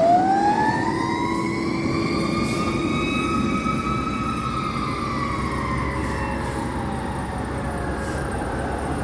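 Fire truck siren winding up over about four seconds and then slowly falling in pitch, over the low rumble of the truck's engine.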